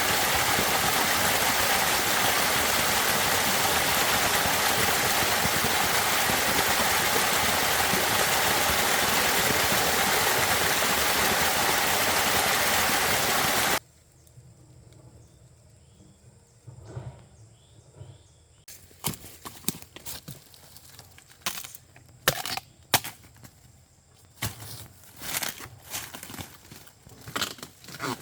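A loud, steady rushing noise, like running water, cuts off suddenly about fourteen seconds in. Then comes a quiet stretch with scattered crackling and rustling clicks that grow more frequent toward the end.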